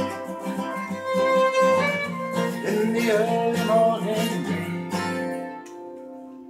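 Acoustic guitar and fiddle playing the closing bars of a country song. The last chord rings out and fades about five and a half seconds in.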